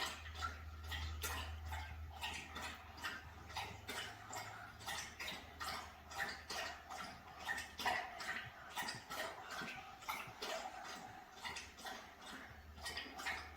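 Birds calling: a steady run of short, sharp chirps, about three a second, over a low steady rumble.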